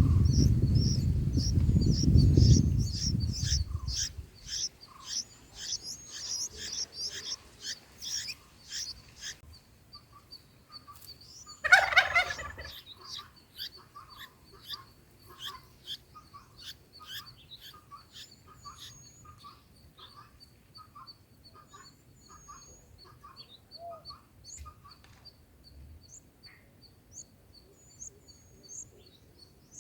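Bulbul nestlings begging at the nest with rapid high-pitched cheeping, over a loud low rustling noise in the first few seconds. The cheeping stops about nine seconds in; about twelve seconds in comes a single louder, harsher call lasting about a second, and after it only faint repeated peeps.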